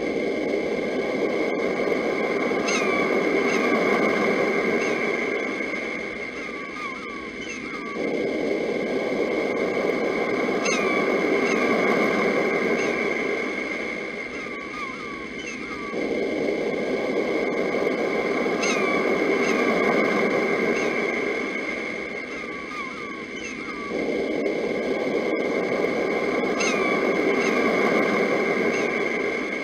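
Sea waves washing in about every eight seconds, each surge starting suddenly and easing off, under continuous bird chirping and a steady high ringing note. The same eight-second stretch repeats four times, a looped recording.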